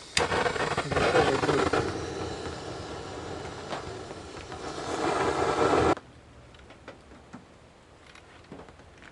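Handheld gas torch burning with a steady hiss for about six seconds, played over soaked firewood to light it, then shut off abruptly; faint ticks follow.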